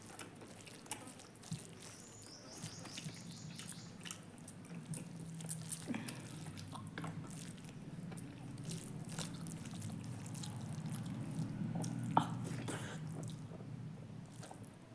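Close-up eating sounds: a person chewing, with wet mouth clicks and smacks scattered irregularly, over a low steady hum.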